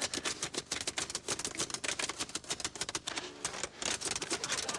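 Rapid, irregular clicking, roughly ten sharp clicks a second, with a brief break a little past three and a half seconds.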